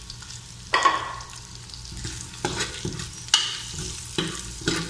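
Minced garlic sizzling in oil in a frying pan while a spatula stirs it, with a handful of sharp knocks of the spatula against the pan, the loudest about a second in.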